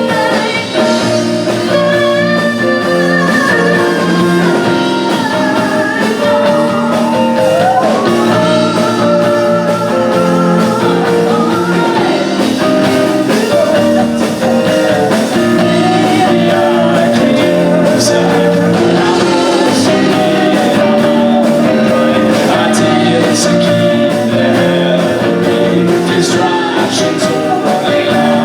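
A live band playing a rock-blues passage led by guitar, with drums and some singing without clear words; the lead line bends in pitch over sustained chords.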